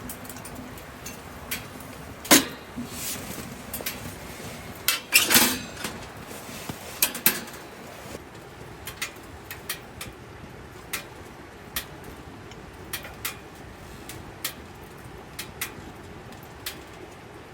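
Irregular knocks and clinks of hard objects being handled, the loudest few in the first seven seconds, then lighter scattered ticks.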